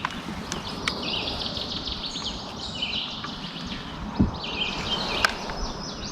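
Wild songbirds chirping and trilling continuously, with a few sharp clicks and one low knock about four seconds in.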